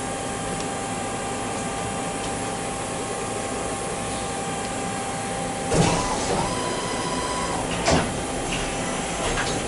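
Machine-shop machinery running with a steady hum. About six seconds in comes a sudden loud scrape with a short whine lasting about two seconds, followed by a sharp knock and a couple of lighter clicks near the end.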